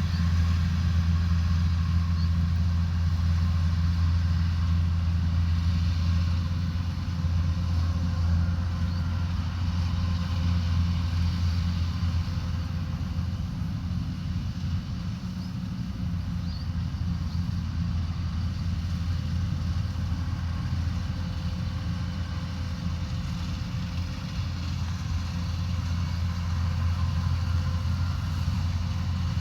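Rice combine harvester's diesel engine running steadily with a low, even hum, easing slightly in loudness about halfway through and rising again near the end.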